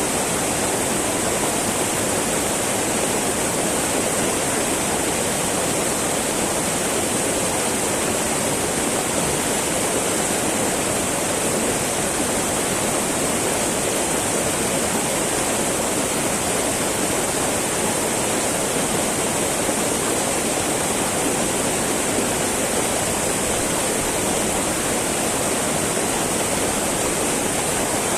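Small mountain river babbling steadily over rocks, a continuous even rush of water.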